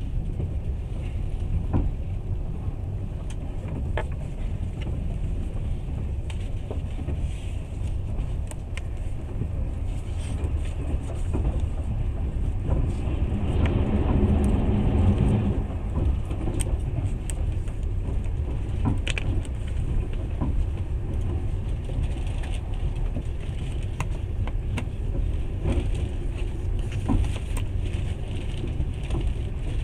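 Passenger train running on rails, heard from inside the carriage: a steady low rumble of the wheels with scattered clicks. For a few seconds near the middle it grows louder as the train crosses a bridge.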